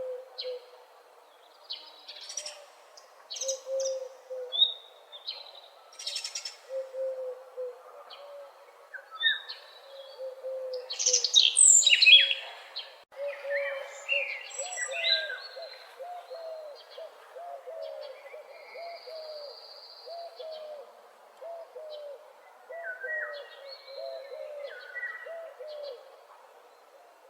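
Several birds chirping and singing in a dawn chorus, with a lower, repeated call underneath that becomes a rapid string of notes in the second half. The high song is loudest about eleven seconds in.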